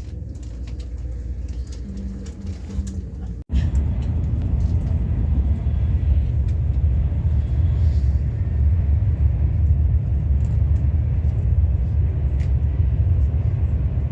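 Steady low rumble of a high-speed train running, heard from inside the passenger carriage, with three short low tones about two seconds in. It cuts out abruptly about three and a half seconds in and comes back louder.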